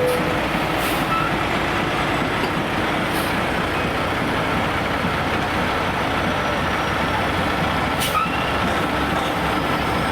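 Fire truck's diesel engine running steadily, with a few short high hisses.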